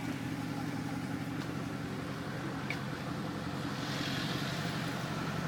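Mercedes SLS AMG's 6.2-litre V8 idling steadily between revs, with no blips of the throttle.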